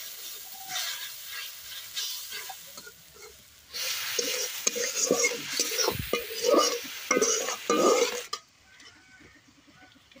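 Spice paste sizzling and bubbling in hot oil in a wok, stirred and scraped with a spatula. It gets much louder about four seconds in and cuts off suddenly near the end.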